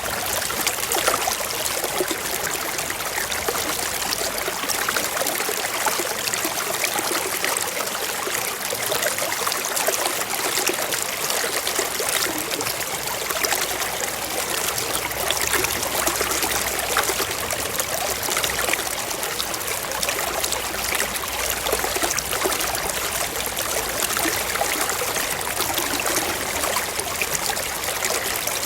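Forest stream running over rocks: a steady rush of flowing water with fine trickling and splashing.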